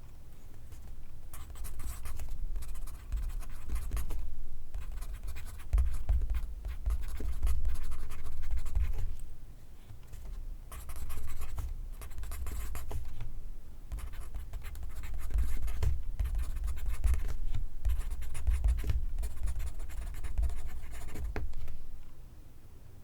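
Pencil writing on paper: scratchy strokes in runs of a few seconds, with short pauses between them.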